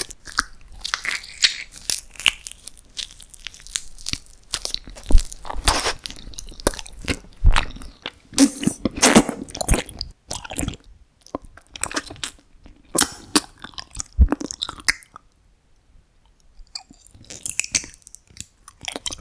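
Close-miked crunching and chewing: a run of crisp bites and crackling chews, with a few harder bites standing out. The chewing stops for a moment a little before the end, then resumes more quietly.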